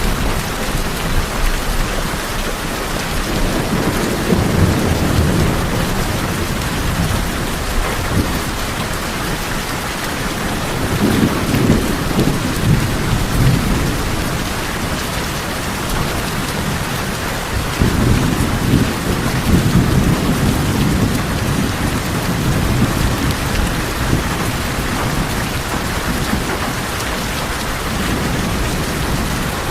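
Steady heavy rain pattering on a tin roof, with low rolling rumbles of thunder that swell up about three times.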